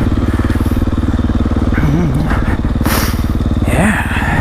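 Dirt bike engine running steadily at low revs, with a short hiss about three seconds in.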